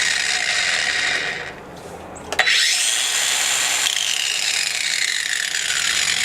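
Craftsman CMCG400M1 20-volt cordless 4.5-inch angle grinder running free with no load. It is released and winds down about a second and a half in, then clicks back on just after two seconds and spins up with a rising whine to full speed, on a 4.0 Ah lithium-ion battery.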